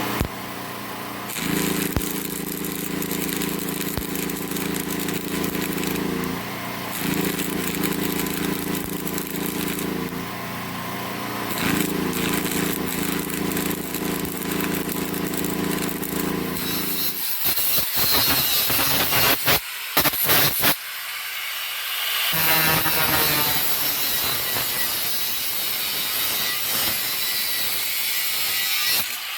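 Power tools working steel: a steady motor hum for the first half, then, after several abrupt cuts, a harsh high-pitched grinding.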